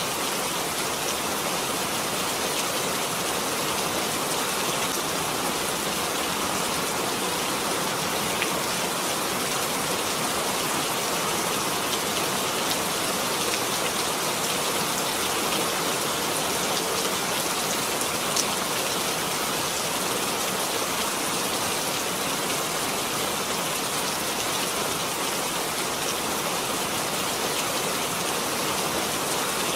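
Steady rainfall, a dense even hiss of drops with faint scattered patters and no letup.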